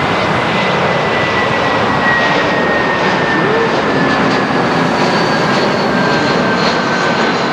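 Jet engines of an Airbus A321-200 airliner running loudly as it passes, a steady wash of noise with a high whine that slowly falls in pitch.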